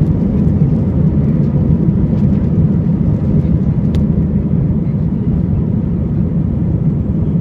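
Airbus A320 at takeoff, its jet engines giving a steady, loud low rumble. There is a faint single tick about four seconds in.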